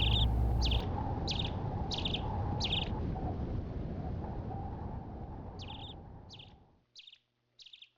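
A bird repeating a short, high chirp that falls in pitch, a little under twice a second, with a pause in the middle. Under it a low rushing background fades out about two-thirds of the way through.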